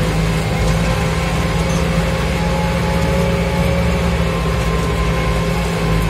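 Farmtrac 675DT tractor's diesel engine running steadily under load while pulling a plough through wet soil.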